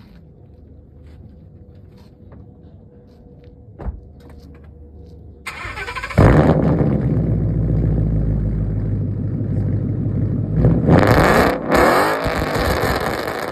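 2016 Mustang GT's 5.0-litre V8 started through a straight-piped dual exhaust with no resonators or mufflers: it cranks and catches loudly about halfway through, settles into a loud idle, and is revved briefly a few seconds later before dropping back.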